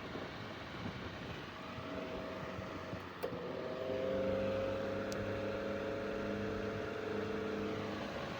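Antique Century Electric S2-10 desk fan running with a steady motor hum and blade whir. About three seconds in there is a sharp click, after which the hum gets louder and its pitch creeps slowly upward as the fan picks up speed.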